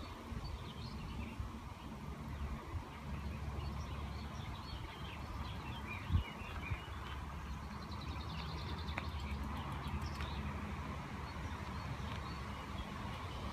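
Small birds chirping in scattered short calls, mostly in the first half, over a steady low rumble.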